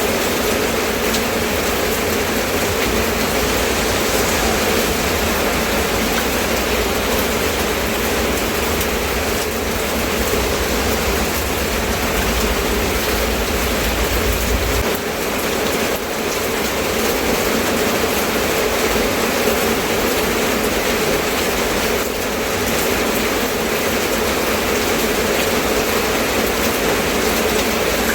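Steady rain falling, a dense, even hiss, with a low rumble underneath that drops away about halfway through.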